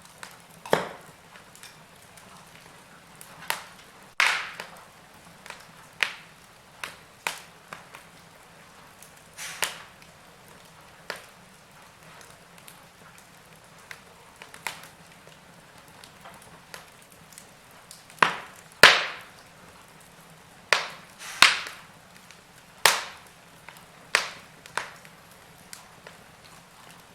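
Wood fire crackling in a fireplace: irregular sharp pops and snaps at uneven intervals over a faint steady background, with a run of louder snaps a little past the middle.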